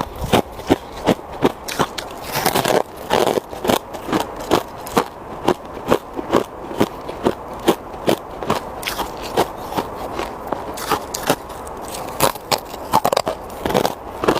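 Ice crunching between the teeth as it is chewed: a steady run of sharp crunches, about two to three a second.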